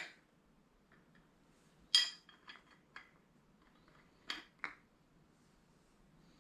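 Light metallic clinks and taps as a camshaft bearing is fitted onto the sleeve of a cam bearing installer tool: a few separate contacts, the loudest about two seconds in with a brief ring, and two more close together near the end.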